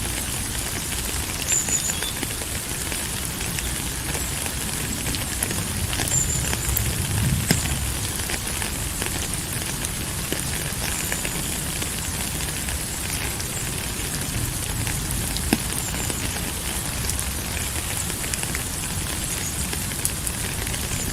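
Steady rain falling: an even hiss dotted with many small drop ticks, with a few short high chirps now and then.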